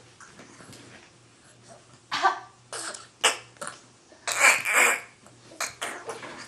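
A young child making cough-like throat-clearing noises, a series of short rasping bursts, the loudest and longest about four and a half seconds in.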